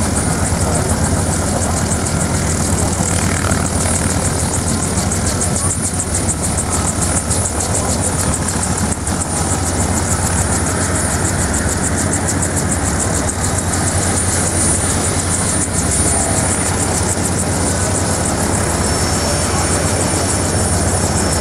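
Vietnam-era Bell Army helicopter running with its turbine and rotor going, loud and steady; a faint high whine comes in near the end.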